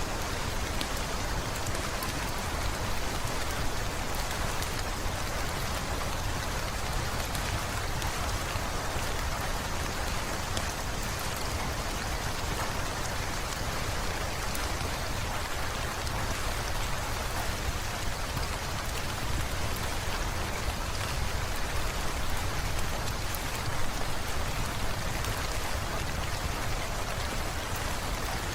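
Heavy rain falling steadily, with a few faint crackles from a wood fire scattered through it.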